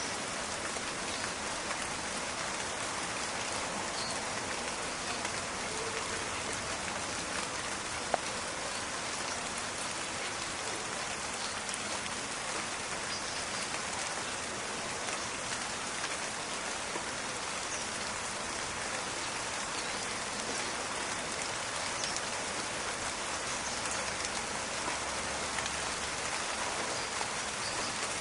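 Steady, dense rain falling in a forest, a continuous crackling patter of drops. One sharp click stands out about eight seconds in.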